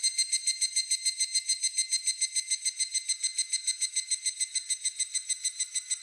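Higurashi (evening cicada) calling: a fast, even run of high, ringing pulses, about seven or eight a second, weakening slightly toward the end.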